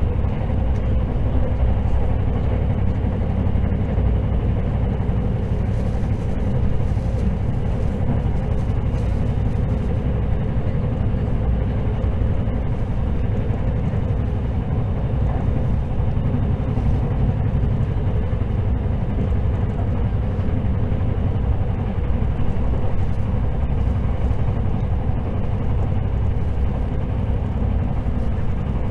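Cabin noise inside an electric limited express train running at speed: a steady low rumble from the running gear and wheels on the rails.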